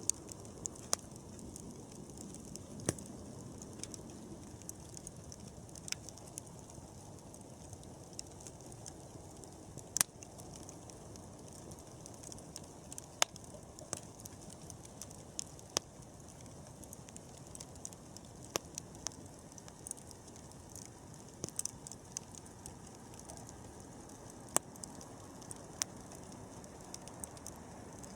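Wood campfire burning: a steady low rush with sharp, irregular pops and crackles about every second or few.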